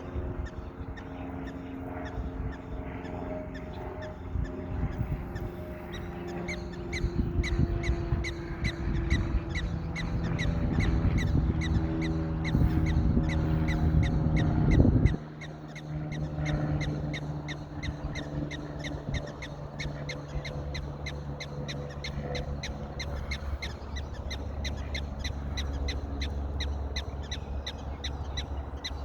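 A bird calling in a fast, even series of short notes, about three a second, over a low rumble that cuts off suddenly about halfway through.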